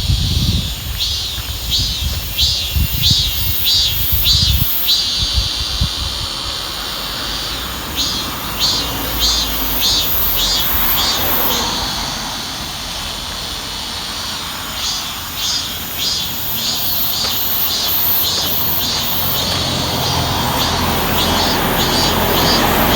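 Insects chirping in a fast pulsing rhythm, in phrases of a few seconds with short pauses between. A low rumble swells near the end.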